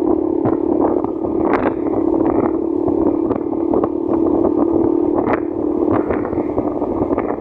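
Motorcycle engine running at a steady speed while riding, with wind noise on the microphone and scattered sharp ticks.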